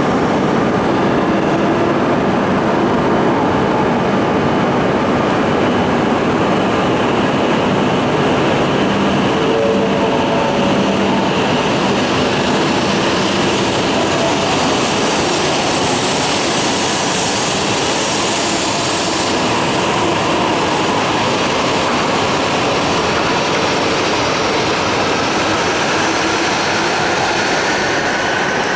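Shinkansen train running at Ueno's underground platform, a loud steady rush of rolling noise; a whine rises in pitch near the end.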